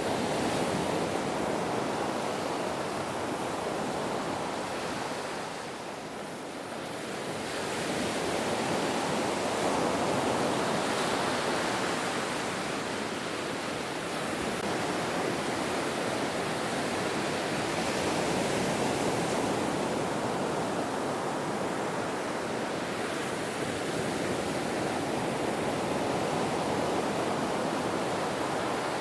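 Ocean surf, waves washing in as a continuous rush of water that eases about six seconds in and swells again a few seconds later.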